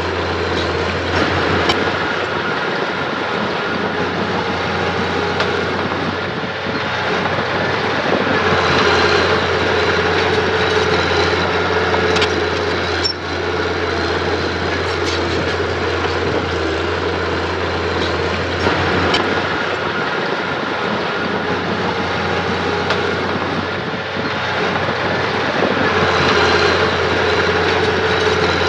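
Diesel engine of an earthmoving machine running continuously, its note rising and falling under load every few seconds, with occasional metallic clanks.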